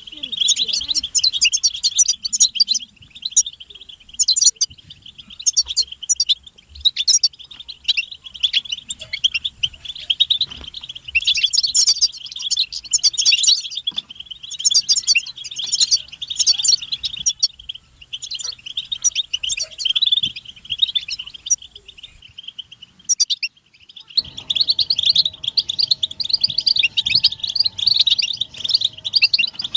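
European goldfinches twittering and calling in quick runs of high chirps, the rapid 'pit-pit' calls played to stir a silent male into song. The chirping breaks off briefly about 22 seconds in and resumes after a cut to another recording.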